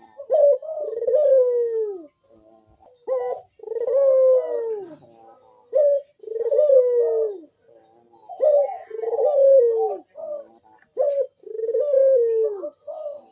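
Barbary dove (burung puter) cooing in its full song (manggung): repeated phrases, each a short note followed by a long, falling coo, about five phrases with brief pauses between.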